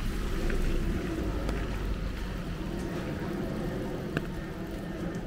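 Heavy rain falling steadily over a low, continuous rumble, with a few sharp drip-like taps, one about four seconds in.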